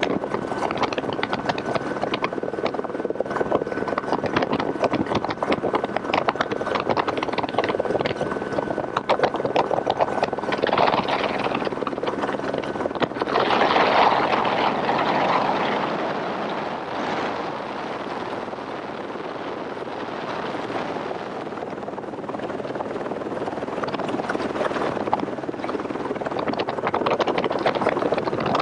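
Helicopter running, its rotor blades chopping fast and steady, with wind rushing over the microphone; it swells louder about halfway through, then eases off.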